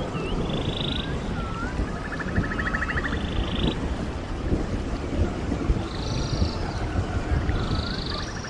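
A stream running steadily, with birds singing over it: several rapid trills and a few short rising whistled notes.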